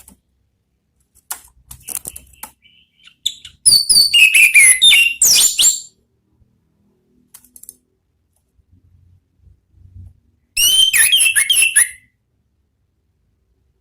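Orange-headed thrush singing two loud bursts of fast, sliding whistled phrases, one about four seconds in and one near the end, with faint soft clicks in the quiet between them.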